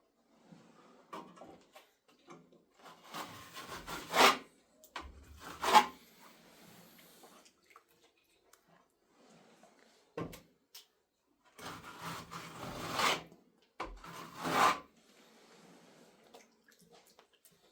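Wet plaster being worked by hand: irregular scraping and wet slapping strokes, loudest about four, six, thirteen and fifteen seconds in.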